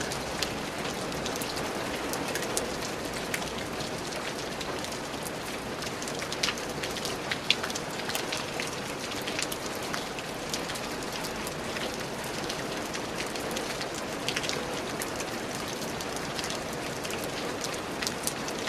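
Steady rain falling: a constant even hiss with many individual close drops ticking sharply over it.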